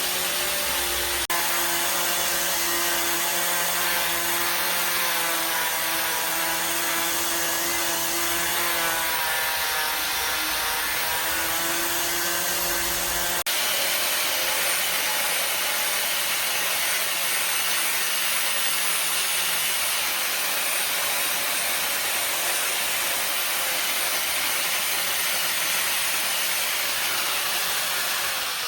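A power tool's electric motor running with a steady whine and hiss. Its pitch dips briefly around the middle, as under load. At the very end it is switched off and winds down.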